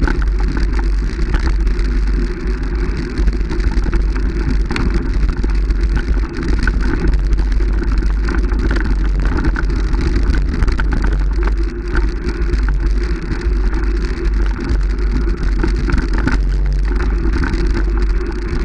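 Vehicle running steadily, a continuous low drone of engine and road noise with a fine pattering crackle over it.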